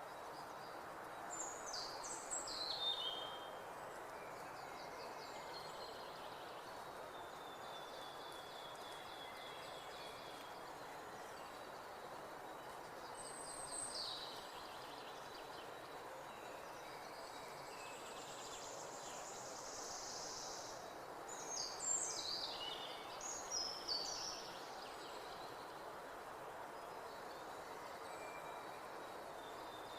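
Songbirds singing over a steady background hiss: quick falling phrases about two seconds in and again near the end, a softer trill and scattered single notes in between.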